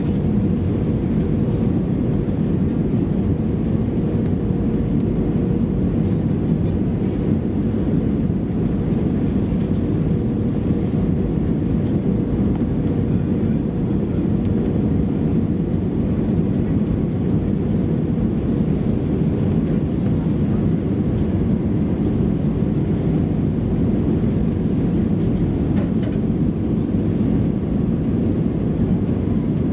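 Steady cabin noise inside an Airbus A320-214 with CFM56 engines, a continuous roar of engines and airflow heard from a window seat. A faint steady tone sits in the noise and fades out about a third of the way through.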